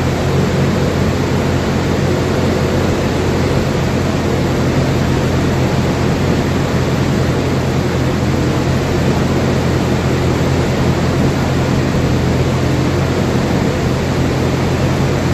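Steady loud machinery noise in a dyno cell: an even rush with a low, unchanging hum and no revving.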